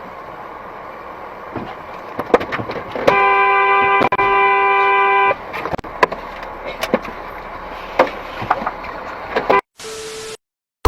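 Car horn honking in one long blast of about two seconds, with a brief break partway through, over traffic noise with scattered knocks. A short single-tone beep comes near the end.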